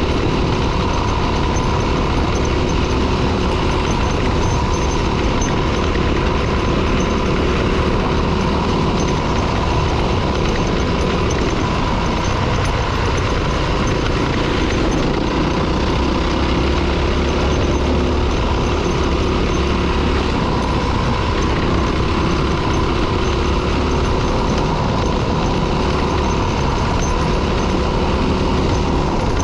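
Dirt bike engine running steadily while riding along, with a loud, even rush of noise and low rumble beneath it.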